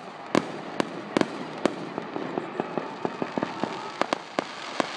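Fireworks display going off: a quick, irregular string of sharp bangs and smaller pops. The loudest bangs come in the first two seconds and again about four seconds in.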